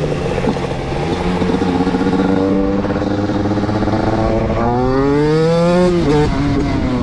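Motorcycle engine running, then revving up for about a second and a half and dropping off sharply near the end.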